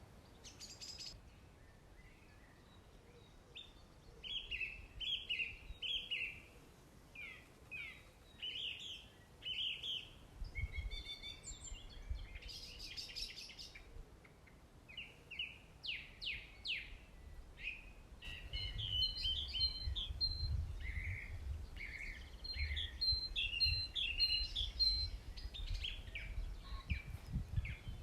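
Small songbirds singing and calling in short repeated phrases and trills, starting about four seconds in, with a low rumble underneath in the second half.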